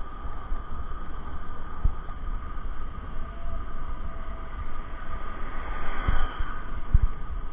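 Riding noise from a bicycle: wind rumbling and thumping on the microphone over a steady rolling hum, with a swell of louder noise about six seconds in.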